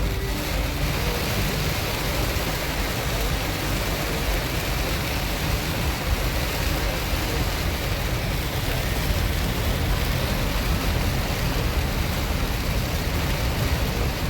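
Steady noise of heavy rain and tyres on a flooded road, heard from inside a moving car's cabin, with a deep constant rumble.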